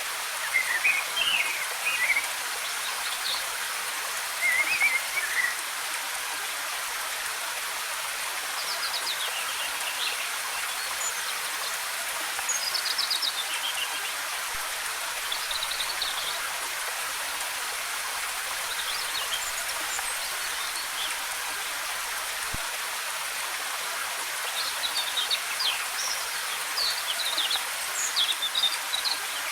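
Steady rushing hiss of a waterfall, with songbirds chirping in short runs of quick high notes every few seconds. The birds fall quiet for a while in the middle and are busiest near the end.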